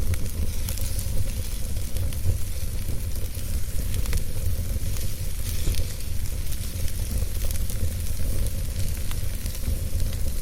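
Wood fire in a fireplace crackling, with a steady low rumble and hiss of the flames and frequent small pops and snaps scattered throughout.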